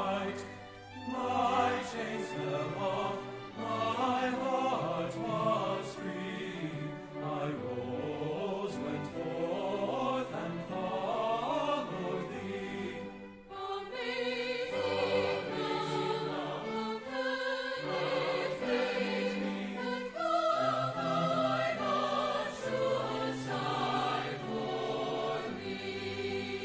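Choir singing a traditional hymn, with a brief pause about halfway through before the singing resumes.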